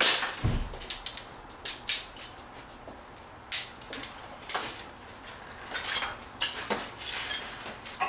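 Metal hand tools clinking and tapping against metal parts: irregular sharp clicks, some with a brief high ring, and one low thump about half a second in.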